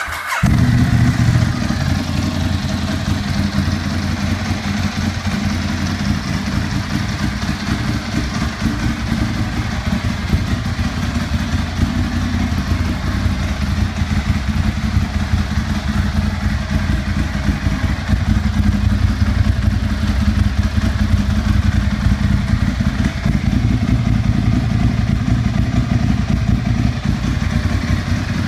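Ducati Monster 1100's air-cooled L-twin idling steadily through Arrow aluminium slip-on mufflers with the baffles removed. It comes in suddenly and stays loud and even throughout.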